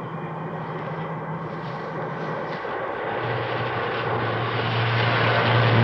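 Car engine running with a steady low drone. About three seconds in the drone becomes deeper and grows louder toward the end as the car approaches.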